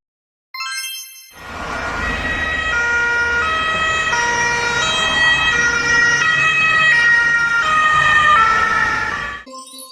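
Two-tone emergency-vehicle siren alternating between a high and a low note a little under every second, over a low rumble; it stops near the end.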